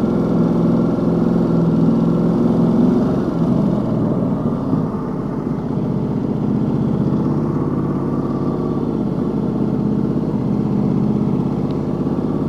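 Ducati Multistrada 1200 Enduro's V-twin engine running steadily under way. Its pitch eases off about three seconds in, then holds even.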